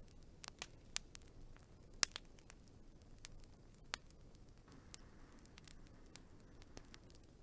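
Wood fire crackling: irregular sharp pops and snaps over a faint low hiss, the loudest pop about two seconds in.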